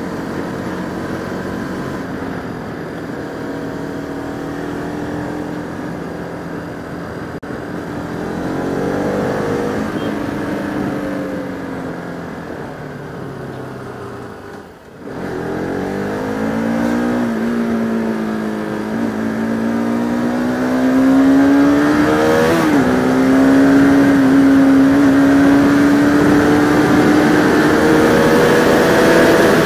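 Bajaj Pulsar RS200 motorcycle engine under way, its pitch rising and falling with the throttle. It eases right off about halfway through, then picks up and climbs, with a quick gear change about two-thirds of the way in, and holds a steady higher pitch.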